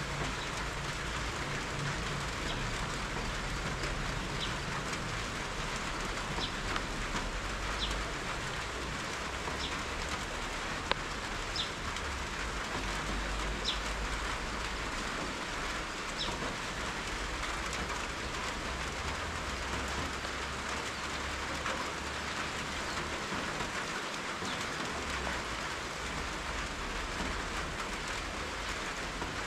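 Steady rain falling, an even hiss with no letup, with a low rumble underneath that comes and goes. A few brief high-pitched blips stand out over the rain, mostly in the first half.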